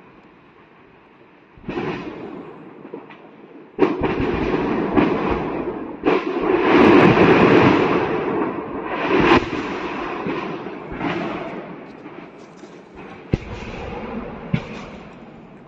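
Secondary explosions from a burning ammunition depot cooking off: a string of sudden bangs and pops, each trailing into a rumbling crackle, loudest about six to eight seconds in.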